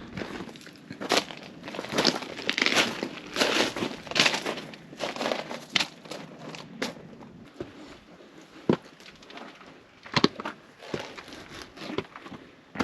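Footsteps crunching on gravel and rock, irregular steps that come thick in the first half and then fewer and sharper.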